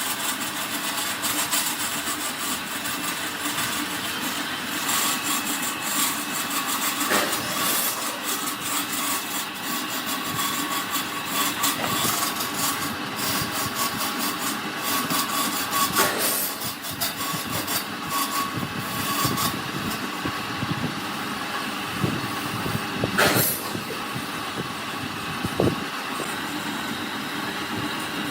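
A power tool running steadily on wood, with a few sharp knocks.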